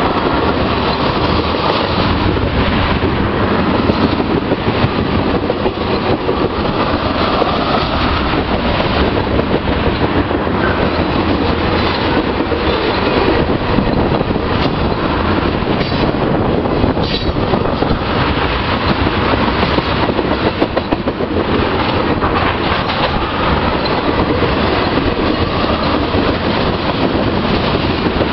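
Freight train of ethanol tank cars rolling past, steel wheels clacking over rail joints in a steady loud rush, with a brief high wheel squeal about two-thirds of the way through.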